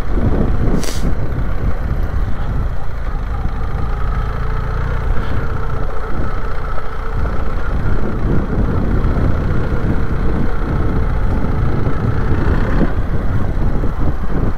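BMW R 1300 GS boxer-twin engine running steadily as the motorcycle rides up a rocky dirt trail, with a brief click about a second in.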